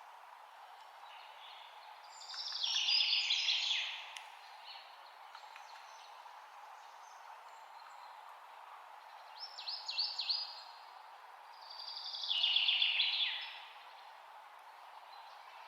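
Songbirds singing over a steady outdoor hiss: a trilled song phrase about two seconds in, a short run of quick chirps near ten seconds, and the trilled phrase again about twelve seconds in.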